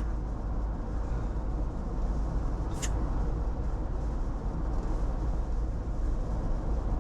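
Steady car engine and road noise heard inside a moving car's cabin, with one short sharp click about three seconds in.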